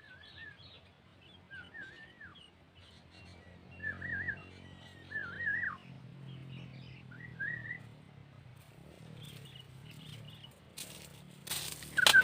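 Sooty-headed bulbul (kutilang) giving short, wavering whistled phrases several times. Near the end comes a sudden loud noisy burst, louder than the calls.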